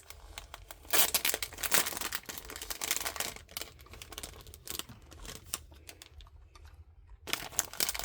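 Plastic crinkling and rustling as it is handled, in bursts that are loudest about a second in and again near the end.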